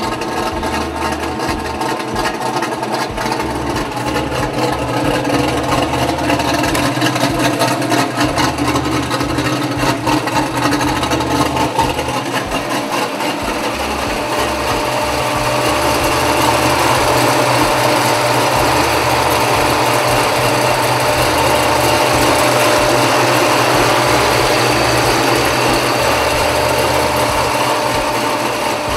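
Cammed, boosted Corvette Z06 V8 running steadily, with its electric exhaust cutouts open; it gets somewhat louder about halfway through.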